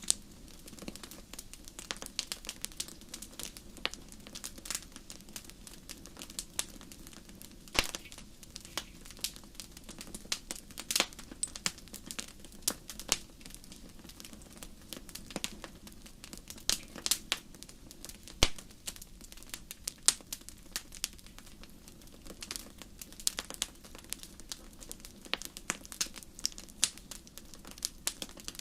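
Wood fire crackling in a fireplace: irregular sharp pops and snaps, several a second, over a soft steady rush of the flames.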